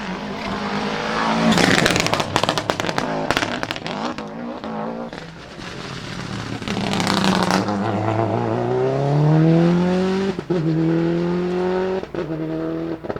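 Rally car at speed: a run of sharp bangs and crackles from the engine, then the engine note rising as it accelerates, with two quick gear changes near the end.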